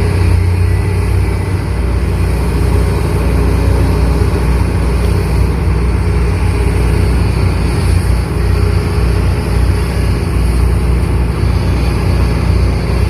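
Excavator's diesel engine running, a deep steady drone that holds nearly the same level throughout.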